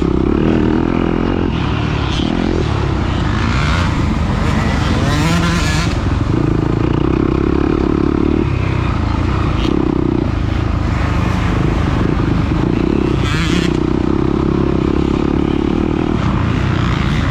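Dirt bike engine under hard riding, the throttle opening and closing over and over: held at high revs for a second or two at a time, then backing off and picking up again.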